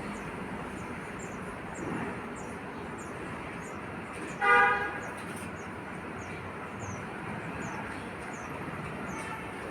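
A horn toots once, briefly, about four and a half seconds in, over steady traffic-like background noise. Short, high chirps of small birds repeat throughout, fitting sparrows at the nest.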